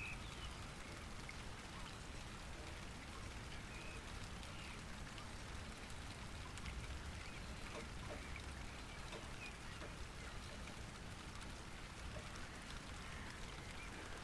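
Light rain and drips falling steadily, with faint, short bird calls scattered over it.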